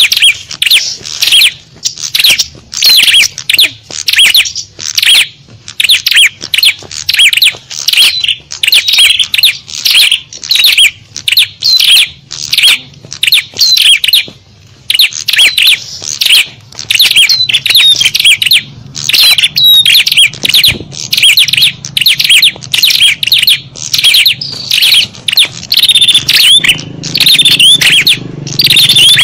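Small-bird lure call: a loud, dense chatter of rapid high chirps and twitters from small songbirds, running almost without pause and easing off briefly about halfway through.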